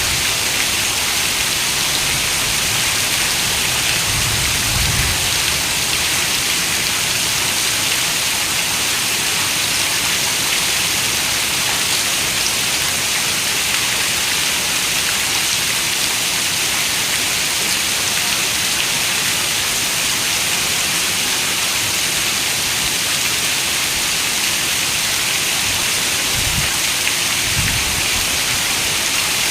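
Steady rain, an even dense hiss with no break, with two brief faint low rumbles, one about four seconds in and one near the end.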